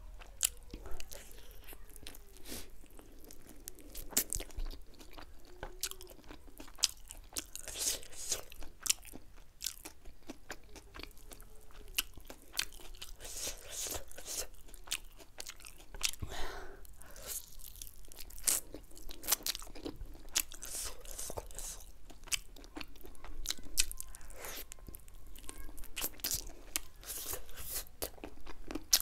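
Chewing and biting of sauce-coated spicy chicken wings, with many irregular sharp crunches.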